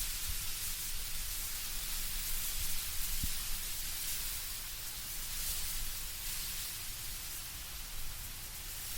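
Wind moving through autumn trees, the leaves rustling in a steady hiss with a low rumble underneath.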